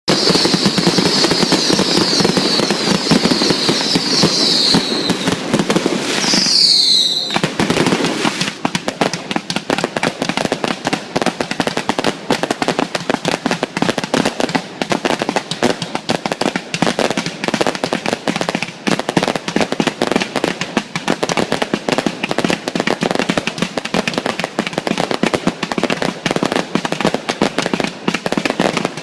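Fireworks: high whistles for the first few seconds, one rising whistle about seven seconds in, then a dense, rapid crackling and popping that keeps on to the end.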